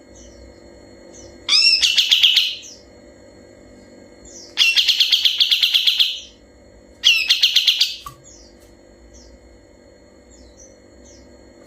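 Kapas tembak bulbul singing three loud, fast rattling trills ("ngebren"), each about a second long with short pauses between. Faint chirps of other birds and a steady low hum run underneath.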